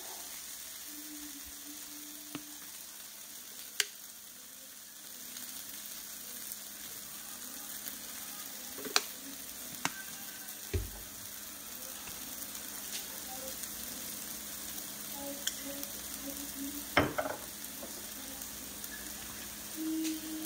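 Instant noodles frying in a nonstick frying pan with a steady sizzle. A few sharp clicks are heard, and there is one dull knock about halfway through.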